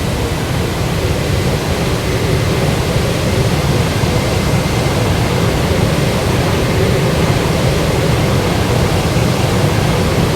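Boeing 737-800 jet engines running, a steady rushing noise that grows slightly louder over the first few seconds.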